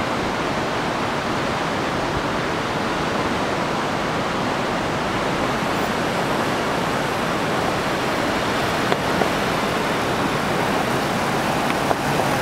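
Steady rushing water, an even roar with no rhythm, cutting in abruptly.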